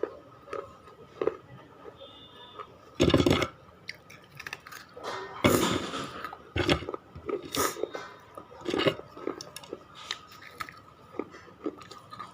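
Close-miked biting and chewing of hard, brittle clay pieces: irregular crunches, the loudest bites about three seconds in and again around the middle, with smaller crunching chews between.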